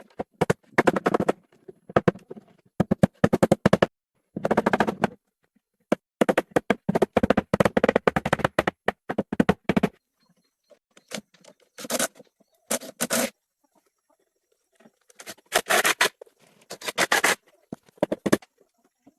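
Bursts of rapid scraping and crackling, each lasting about a second, with short quiet gaps between them.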